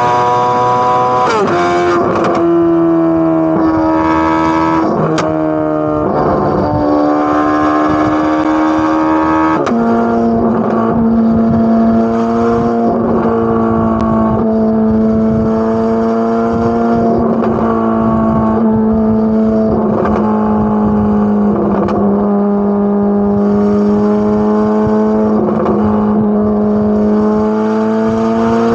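Corvette C8 Z06's 5.5-litre flat-plane-crank V8 pulling steadily through the gears, its exhaust pitch dropping sharply at upshifts about a second and a half in and again about ten seconds in. Afterwards it holds a nearly steady note with small dips and slow climbs.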